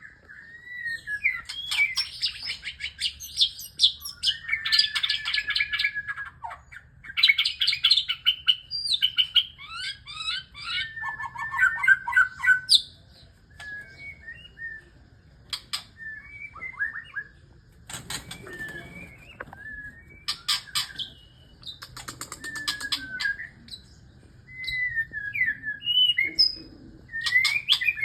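Male white-rumped shama singing its courtship song to a female: loud, varied phrases of rich whistles, slurred notes and fast trills, densest and loudest in the first half. Later come shorter, quieter phrases and several brief rapid rattling bursts.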